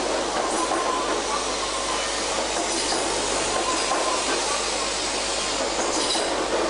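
Coupled 200 series and 400 series Shinkansen train rolling slowly along the platform as it pulls in, a steady hiss of running noise with faint high tones that come and go.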